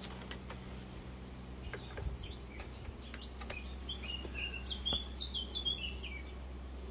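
A small songbird chirping in short runs of high notes that step downward, busiest a little after halfway. A few light clicks from plastic solar-cable connectors being handled and plugged together.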